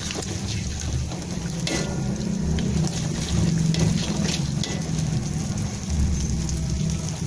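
Beaten egg, sliced garlic and shallots sizzling in hot oil in a wok, with a spatula scraping and stirring against the metal as the egg scrambles.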